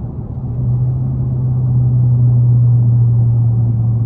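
Dodge Hellcat's supercharged 6.2-litre Hemi V8 running at a steady highway cruise, heard from inside the car. Its drone drops in pitch about half a second in, then holds steady and a little louder.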